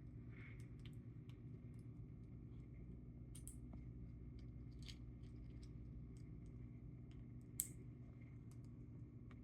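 Faint, scattered clicks and small cracks of an Amazon parrot's beak working a pistachio shell apart, with one sharper crack about seven and a half seconds in, over a steady low hum.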